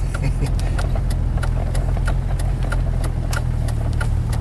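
A Jeep's engine and road noise droning steadily inside the cabin while it drives through snow, with a scatter of light ticks over it.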